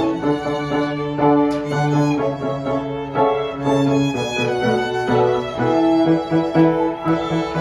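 Live chamber ensemble music: bowed strings, a violin melody over a lower cello-range line, playing held notes that change every half second or so.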